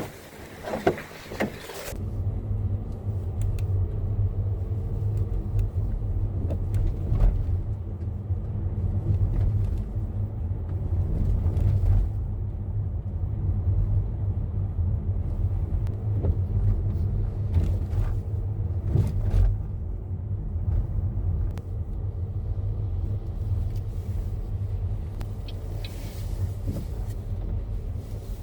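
A few sharp knocks in the first couple of seconds, then a car driving: a steady low rumble of engine and road noise with a scattering of faint clicks.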